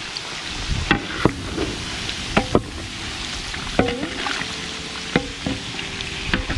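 Pork rinds (chicharrones) sizzling in hot lard in a large metal pot as they turn golden and crisp, while a wooden paddle stirs them. The paddle knocks against the pot about seven times, some knocks leaving a brief metallic ring.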